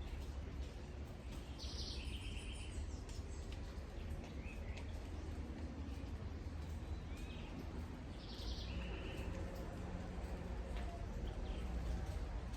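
Steady patter of rain over a low rumble. A bird calls twice with the same two-part call, a high note dropping to a lower one, with a few short chirps between.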